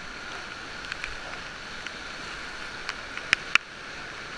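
Steady rushing of river water, with a few scattered sharp knocks; the two loudest, close together, come about three and a half seconds in.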